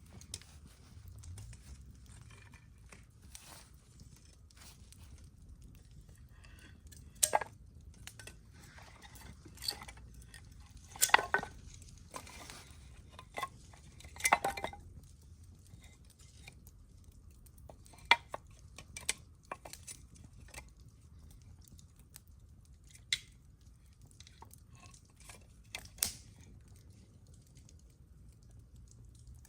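Wood campfire crackling, with irregular sharp pops and snaps over a low steady background.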